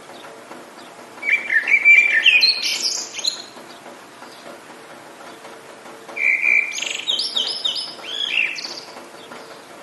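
A songbird sings two rich phrases of quick, warbling, up-and-down notes, each about two seconds long, the first starting about a second in and the second past the middle. Under them runs a steady hiss of rain.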